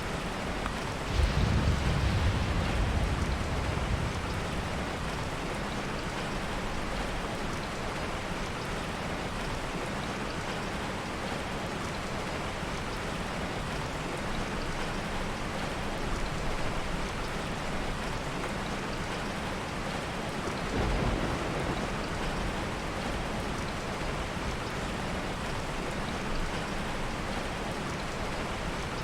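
Heavy rain falling steadily. A thunder clap breaks in about a second in and rumbles for a few seconds, and a softer roll of thunder comes about two-thirds of the way through.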